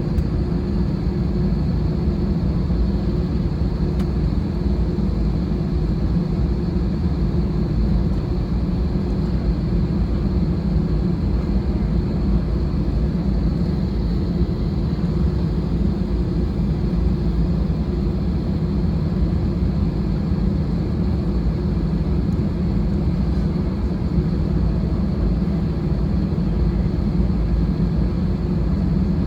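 Steady low rumble and hum inside the cabin of an Airbus A320-216 on the ground before takeoff, with a faint high whine above it.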